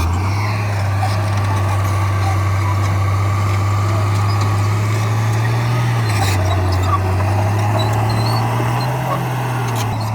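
Diesel engine of heavy earthmoving equipment running steadily, a low drone that rises a little in pitch about five and a half seconds in and again near nine seconds before settling back.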